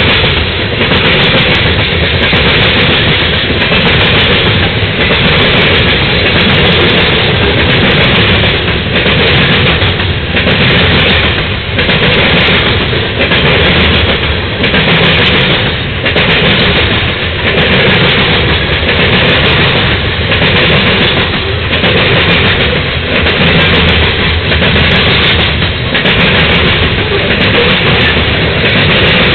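Freight cars of a manifest train rolling past at close range: a loud, steady rumble and clatter of steel wheels on the rails, pulsing in a regular rhythm as wheel sets cross the rail joints.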